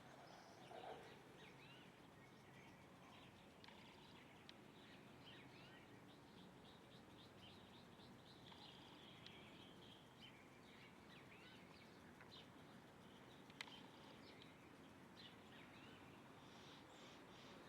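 Faint chirping of small birds: many short calls overlapping throughout, with one sharp click about three-quarters of the way through.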